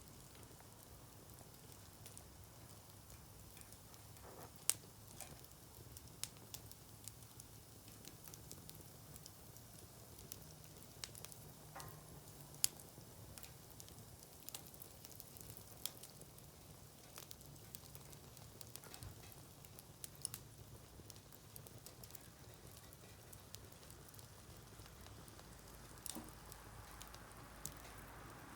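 Wood campfire crackling quietly: irregular sharp pops and snaps over a faint steady hiss, with a louder pop about 5 seconds in and another about 13 seconds in.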